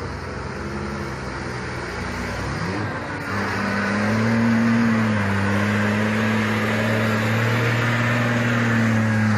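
Truck engine running, rising in pitch and getting louder about three seconds in, then held steady at higher revs under load.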